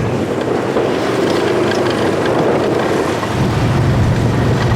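Mud truck engine running loud, its low rumble dropping out for the first few seconds and coming back about three seconds in.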